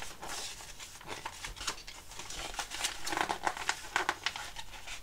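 Plastic bag of model kit sprues being handled and rummaged through: irregular crinkling and crackling, busier from about three seconds in.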